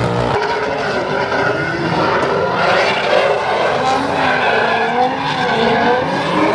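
Drift car engine revving up and down at high load, with the tyres squealing as the car slides.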